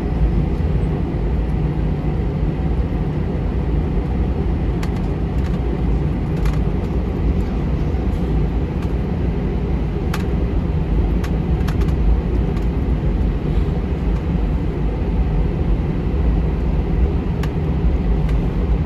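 Steady low rumble of an Airbus A319's jet engines and airframe heard inside the cabin, running before takeoff, with a few faint clicks.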